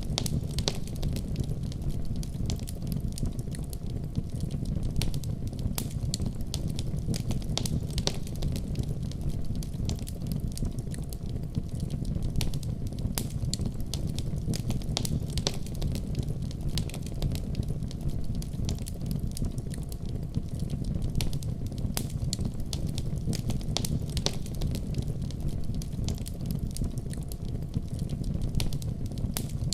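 Fire crackling in a fireplace: frequent irregular sharp pops and crackles over a steady low rumble.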